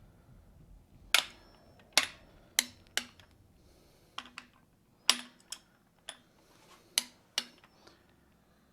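Click-type torque wrench clicking on cylinder head bolts: about nine sharp clicks, irregularly spaced and some in pairs. Each click is the wrench breaking over as a bolt reaches its set torque in a final check round.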